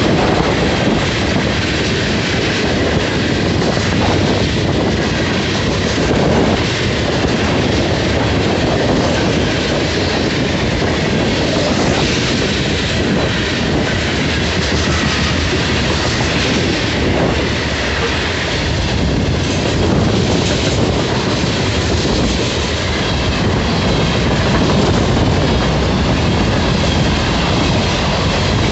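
Loaded freight cars (tank cars, covered hoppers and boxcars) rolling past at speed: a steady, loud rumble of steel wheels on the rails with a rhythmic clickety-clack as the trucks pass over the rail joints.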